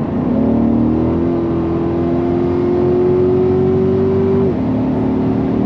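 Chevrolet Corvette C8's V8 engine at full throttle, heard from inside the cabin, its pitch rising steadily as the car accelerates from about 77 to over 100 mph. About four and a half seconds in, the pitch drops suddenly as the automatic gearbox shifts up, then starts climbing again.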